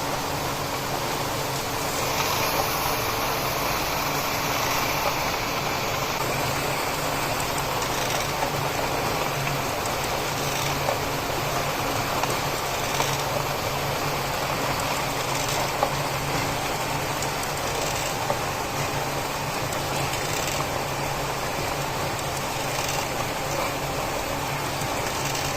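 Steady mechanical running noise with a low hum and faint ticks about every two and a half seconds.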